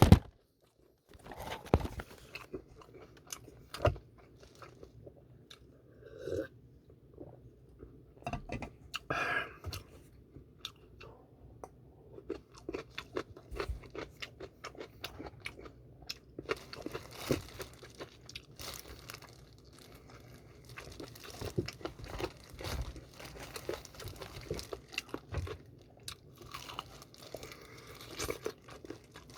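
Close-up chewing and crunching of BHC Puringkle seasoned fried chicken: crisp crunches of the fried coating and chewing, in irregular bouts.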